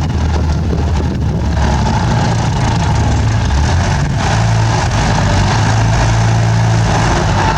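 Bulldozer's diesel engine running steadily while working, with a thin whine that joins about a second and a half in.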